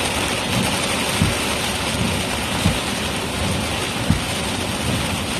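Rain and road noise inside a moving car, a steady hiss with a soft low thump about every second and a half.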